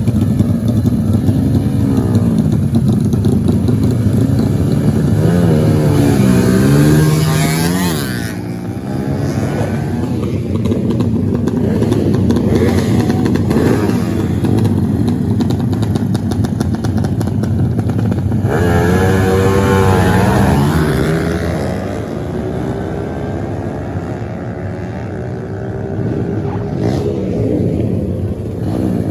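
Off-road motorcycle engine revving, its pitch climbing and dropping again and again, with the strongest run-ups about six and nineteen seconds in.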